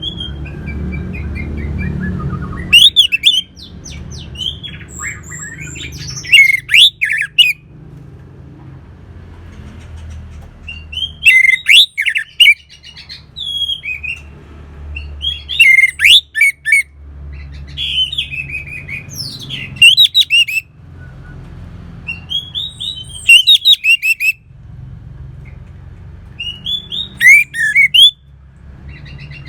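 Orange-headed thrush singing loud phrases of quick, sharp, sliding notes, one phrase every few seconds, about seven in all. A steady low rumble runs underneath between the phrases.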